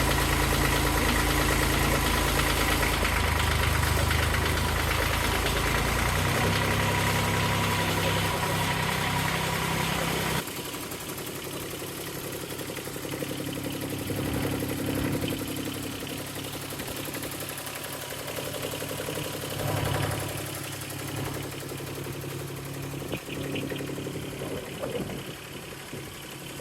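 Cub Cadet 1772 garden tractor engine running steadily. About ten seconds in the sound drops abruptly to a quieter level, and the engine carries on more faintly, rising and falling a little.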